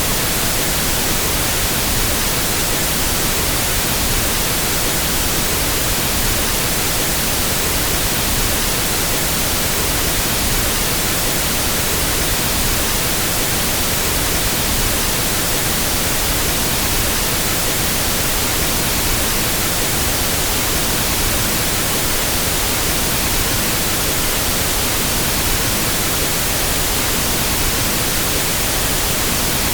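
Steady pink noise test signal for equalizing a sound system: an even, unchanging hiss across the whole frequency range.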